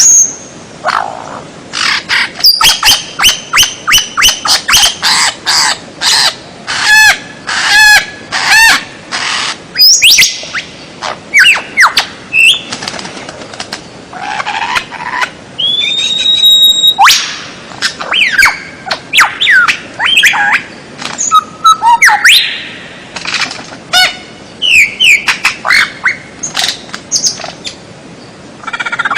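A songbird singing a long, varied song of rapid chirps, fast trills and sweeping whistles, with one held whistle about halfway through and short pauses between phrases.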